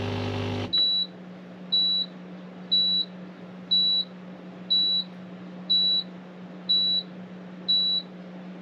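Caravan dishwasher beeping eight times, about once a second, in short high single-tone beeps that signal the end of its wash cycle. A machine hum cuts off under a second in, just before the beeps start.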